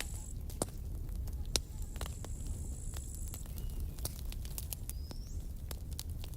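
Wood campfire crackling, with irregular sharp pops and snaps over a steady low rumble of the burning fire. A thin high whistle sounds twice in the first half.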